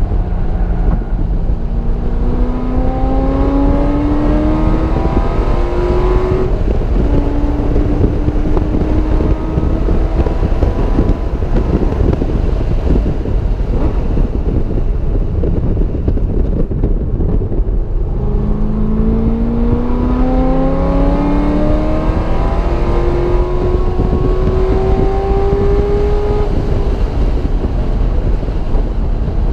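Car engine accelerating hard with rising revs, shifting up about six seconds in and pulling again. In the middle the revs drop away to mostly wind and road noise, then the engine climbs through the gears again from about eighteen seconds in until near the end.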